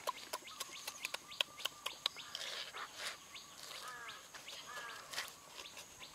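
Crisp clicks and crunches of fresh lettuce leaves being torn and chewed, with a few short falling bird chirps about four and five seconds in.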